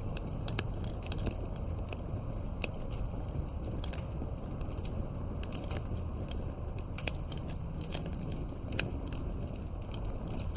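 Campfire burning with irregular sharp crackles and pops of wood over a steady low rumble of flame.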